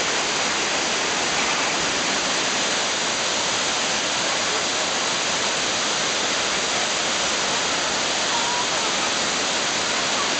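Waterfall rushing, a steady, even roar of falling water heard close by.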